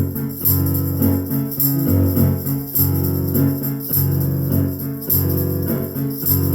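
Live band playing an instrumental break with a steady beat: guitar and bass with jingling tambourine strikes.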